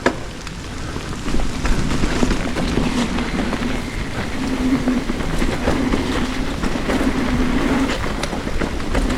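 Riding noise on a wet dirt trail: tyres rolling and rattling over the ground, with a low hum that comes and goes and scattered clicks.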